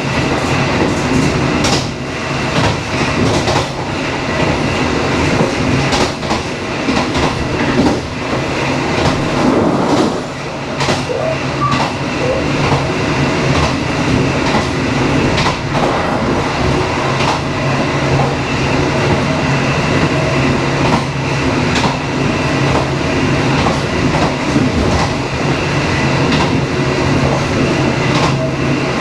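Dharmawangsa passenger train running along the track: a steady rumble with a low hum, and the wheels clicking over rail joints now and then, more often in the first half.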